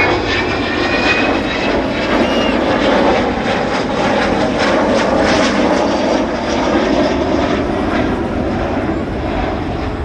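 Avro Vulcan bomber's four Rolls-Royce Olympus turbojets running loud and steady as it flies its display, swelling a little in the middle. A few thin high whining tones fade out in the first couple of seconds.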